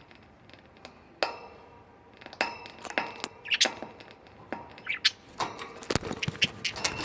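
Budgies moving about in their cage: a series of sharp clicks and clinks, sparse at first and more frequent from about halfway, with a couple of short chirps.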